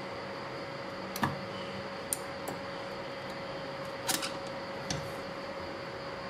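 A few short, light clicks and taps, about a second in, around two seconds, a quick cluster near four seconds and one more near five, over a steady hiss and a constant low hum.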